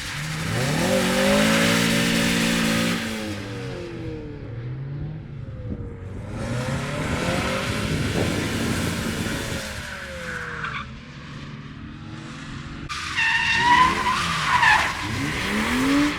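Drift cars sliding past, engines revving up and down with loud tire hiss from the spinning, sliding rear tires in three long bursts. Near the end the tires squeal in high, wavering tones.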